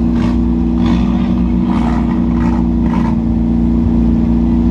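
Several race cars' engines running together on the speedway, a loud steady drone, with a few brief, sharper sounds over it in the first three seconds.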